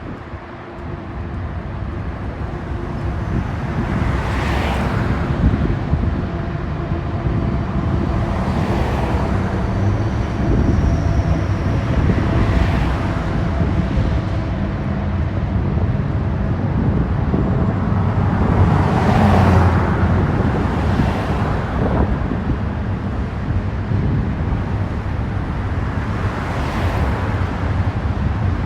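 Union Pacific diesel locomotives and an eastbound intermodal freight train passing: steady low engine rumble and rolling noise that builds over the first few seconds and then holds, with a swelling whoosh every few seconds.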